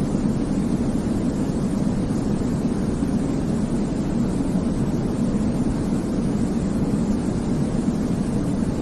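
Baby-sleep white noise track: a steady, deep, rumbling hiss weighted towards the low end, with no change in level or pattern.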